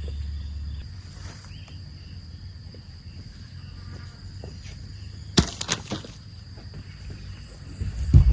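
Steady insect chirring in the background; a low hum stops about a second in. A quick cluster of sharp knocks about five and a half seconds in, and heavier thumps near the end.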